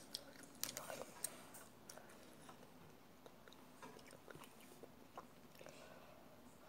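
A person chewing a bite of macaron: soft wet mouth clicks and smacks, with a cluster of sharper clicks about a second in, then scattered faint clicks.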